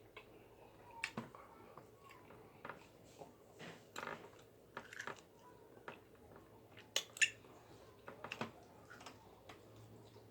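Faint sounds of a person eating: chewing and scattered sharp clicks at irregular moments, the loudest about seven seconds in.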